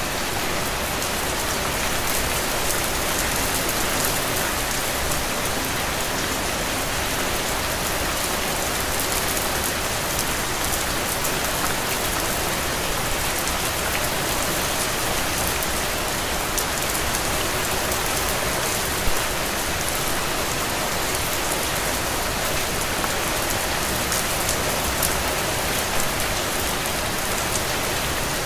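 Heavy, steady rain falling on the ground: a dense, even hiss dotted with scattered drop ticks, with one louder tap about two-thirds of the way through.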